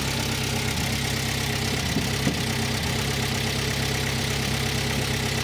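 A 1970 Renault 6's four-cylinder petrol engine idling steadily.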